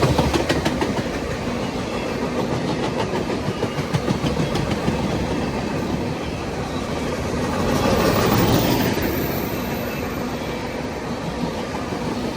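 Freight train cars rolling past with a steady rumble, wheels clicking rapidly over rail joints in the first second; the rumble swells about eight seconds in.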